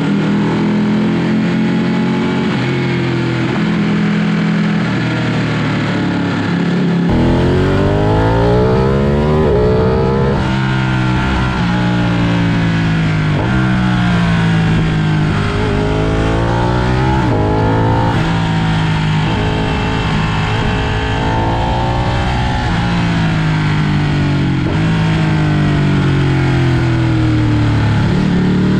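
Ducati Panigale superbike engine under hard acceleration, its pitch climbing and then dropping sharply again and again as it shifts up through the gears, over heavy wind rush. Before that the revs change in steps rather than sweeping up.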